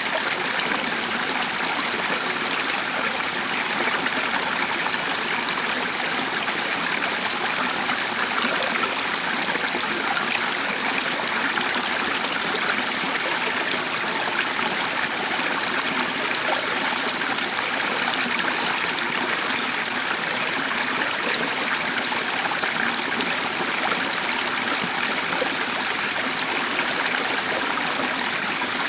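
Stream water flowing, a steady, even rush and trickle.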